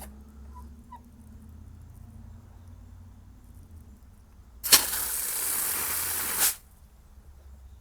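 Woodford Model 17 frost-free outdoor spigot opened briefly: water rushes out hard for just under two seconds, then cuts off sharply as the handle is shut, the rebuilt valve now closing the flow off cleanly.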